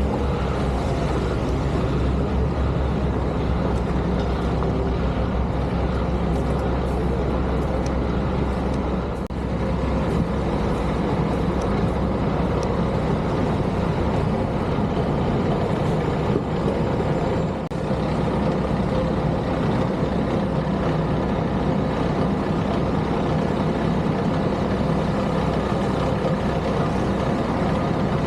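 Heavy snow-removal vehicles' diesel engines running steadily, a continuous low engine drone with two short dips.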